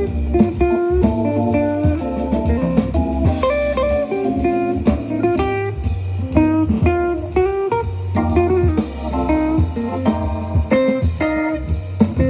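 Blues-style guitar music played back through a portable Bluetooth speaker: quick plucked guitar notes over a steady, heavy bass line.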